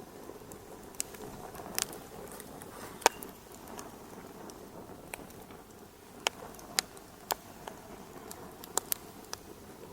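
Wood fire crackling in a fireplace: a steady low hiss broken by irregular sharp pops, the loudest about three seconds in.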